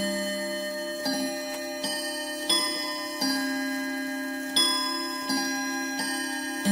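Domestic chiming clock playing its chime, a slow run of struck notes about one a second, each ringing on into the next.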